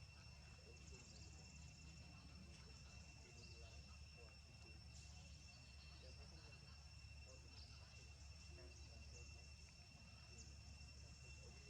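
Near silence with a faint, steady high-pitched insect trill and a low background hum, broken by a few faint short chirps.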